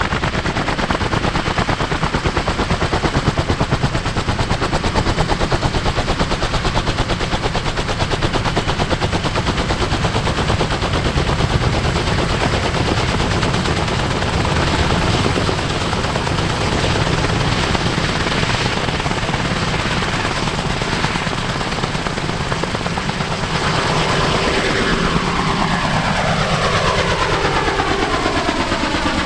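Kaman K-MAX helicopter's intermeshing twin rotors beating at high power: a loud, rapid, even chopping over the whine of its turboshaft engine. In the last few seconds a swishing tone starts to sweep downward as the helicopter moves.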